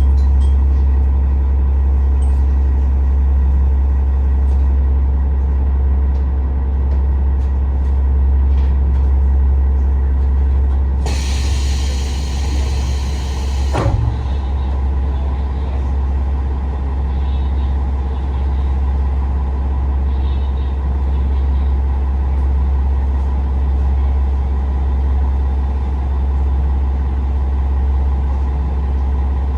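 Kiha 47 diesel railcar's engine running with a steady low rumble inside the car. About eleven seconds in, a burst of compressed-air hiss lasts about three seconds, cuts off sharply, and is followed by a short knock.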